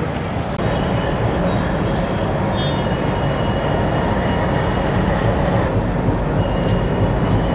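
Train running with a steady heavy rumble, with faint high squeals twice, like wheels or brakes on the rails.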